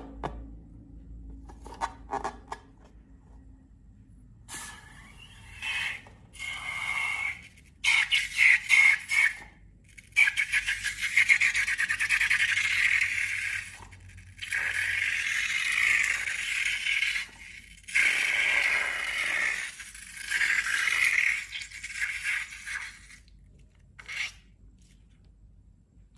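Repeated bursts of fine, rapid crackling scrape, each lasting one to three seconds with short gaps between them.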